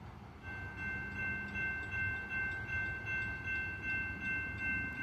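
Diesel freight locomotive's horn sounding a steady multi-note chord, starting about half a second in and held without a break. Under it is a low rumble that swells and fades in a regular beat about twice a second.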